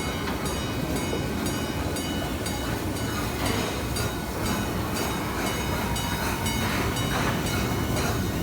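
Amusement-park railway train running, a steady low rumble with a regular clicking from the wheels and cars.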